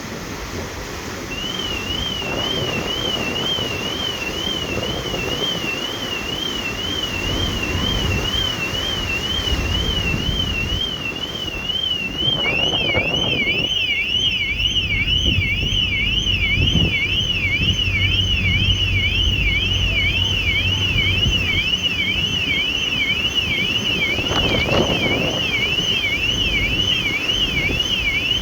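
Two electronic alarms warbling at once over wind on the microphone. One starts about a second in, swinging up and down about two and a half times a second. A second, lower and wider-swinging warble joins about halfway through.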